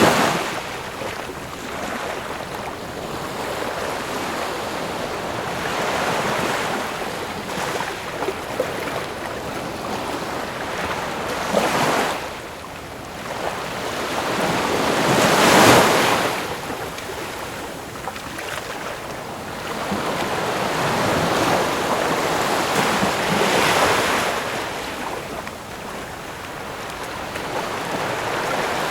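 Ocean waves breaking and washing up, the surf noise swelling and falling back every several seconds. The biggest surge comes about halfway through.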